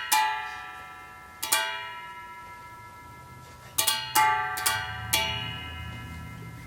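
Gayageum (Korean zither) strings plucked in sparse improvised notes, some single and some in quick pairs, each ringing out and slowly fading. A low drone sounds underneath from about halfway.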